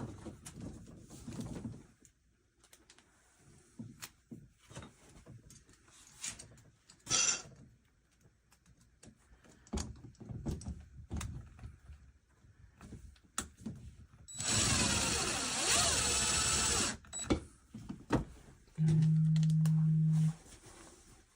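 Scattered clicks and knocks of tool handling, then a power drill running for about two and a half seconds. Near the end a mobile phone on vibrate buzzes in steady pulses.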